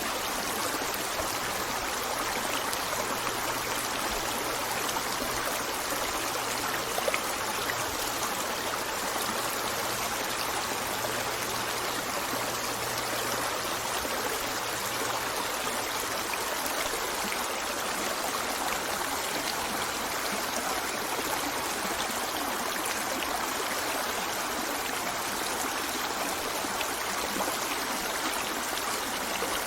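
A river flowing steadily, a continuous rush and trickle of water, with one brief louder tick about seven seconds in.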